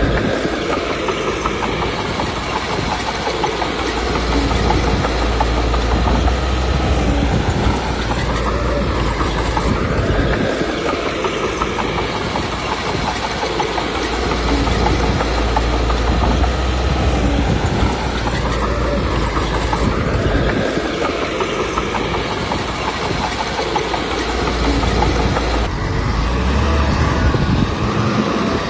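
Komatsu D21P bulldozer working: its diesel engine runs under load and its steel crawler tracks clank and clatter. The engine note swells and eases every few seconds as the machine pushes and backs up.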